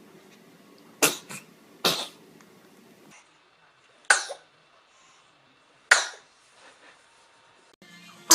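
Babies sneezing: four short, sudden sneezes, two close together in the first two seconds and two more about two seconds apart later on.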